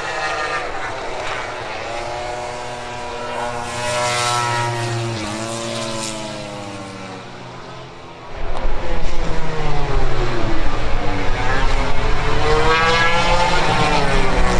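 MotoGP race motorcycle engines revving hard and passing on track, the pitch repeatedly rising and falling as they change speed and go by. About eight seconds in the sound turns much louder and rougher, with a deep rumble under the engine notes.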